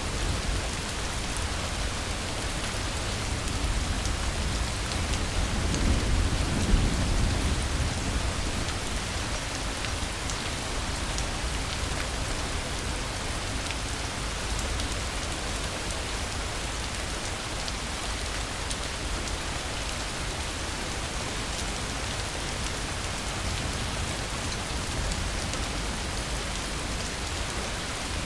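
Steady rain falling, with a low rumble of thunder that swells about four seconds in and fades a few seconds later.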